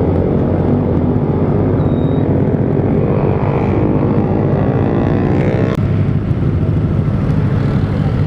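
Kawasaki ZX-25R's inline-four engine running through an R9 Zeta aftermarket exhaust while riding, its pitch climbing under acceleration for a few seconds and then breaking off sharply about six seconds in.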